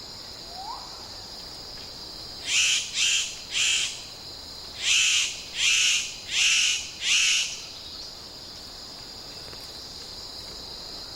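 Male superb bird of paradise giving seven loud, harsh calls in two runs, three then four, over a steady high drone of forest insects.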